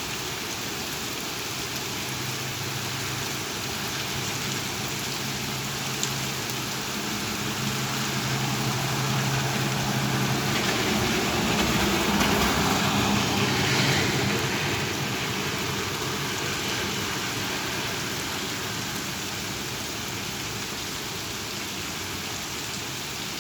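Thunderstorm rain falling steadily with strong wind, the rush swelling louder for a few seconds around the middle. A low steady hum runs through the first half.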